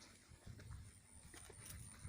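Near silence: a faint low background rumble with a few soft ticks.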